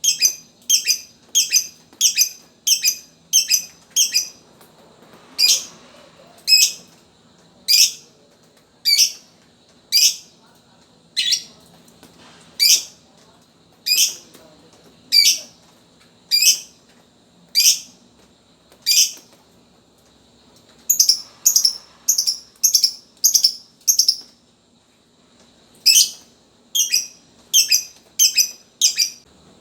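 Lovebird giving short, sharp, high chirps one after another: quick runs of about three a second alternate with slower single calls about a second apart, broken by two brief pauses.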